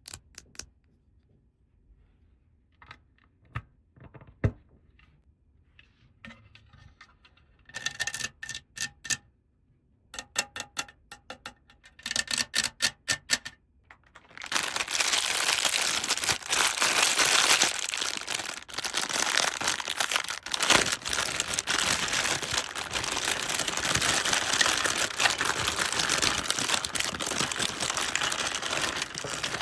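Small plastic toy parts being handled with scattered light clicks and taps, then three short bursts of rapid clicking. About halfway in, a continuous crinkling and tearing of plastic packaging begins and runs on.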